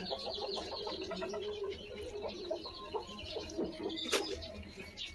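Birds calling: a run of short, repeated calls, with one sharp click about four seconds in.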